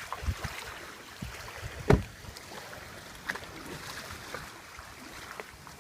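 Knocks and clunks from a motorboat being hauled onto a homemade trailer, with one loud thump about two seconds in and a few lighter knocks around it, over faint wind and water noise.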